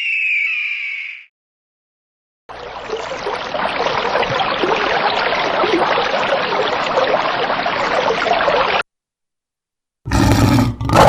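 A short squawking bird call at the start, then about six seconds of steady rushing noise like running or splashing water. A big cat's roar begins near the end.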